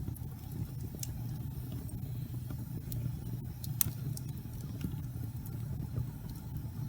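Wood fire burning in a fireplace: a steady low rumble of the flames with sharp crackles and pops from the burning wood, the loudest pop about four seconds in.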